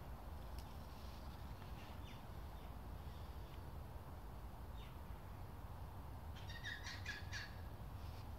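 Outdoor ambience: a steady low background rumble with a few short chirps from birds, then a quick run of bird calls about six and a half seconds in.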